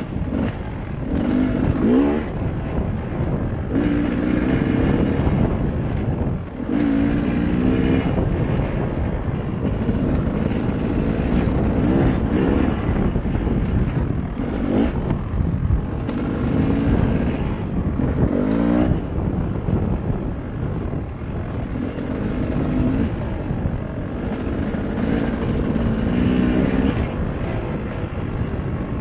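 Dirt bike engine running, its pitch climbing and falling again and again as it revs up and eases off.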